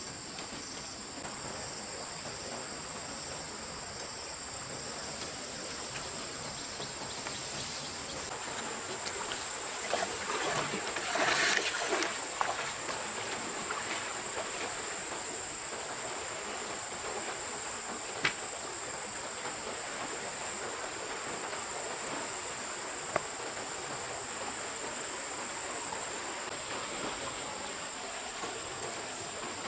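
Insects, crickets or similar, keep up a steady high-pitched trill over an even rush of stream water. About ten seconds in comes a brief louder burst of noise, and later two sharp clicks.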